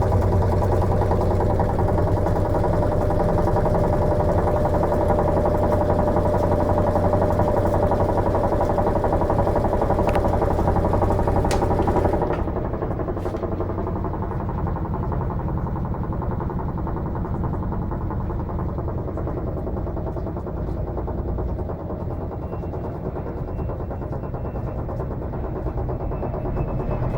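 Electrolux LM13Q top-load washing machine running with a steady motor hum. About twelve seconds in, after a few clicks, the hum drops in level and the sound turns rougher and quieter.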